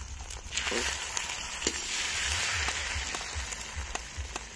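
Egg batter sizzling in a steel kadhai, swelling a little louder mid-way. A few sharp clicks of a metal spatula against the pan come through it.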